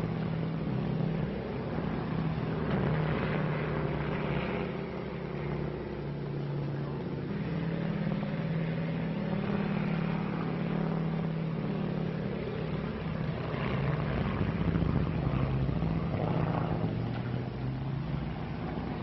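Propeller airplane engine droning steadily.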